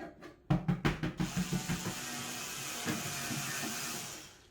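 Cat tower parts being assembled: a fast run of knocks for about a second and a half, then a steady rasping noise that fades out near the end.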